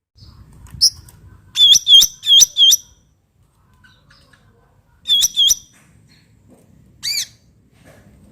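Cucak ranting calling: one sharp note, then a quick run of four, two more about five seconds in, and one near the end.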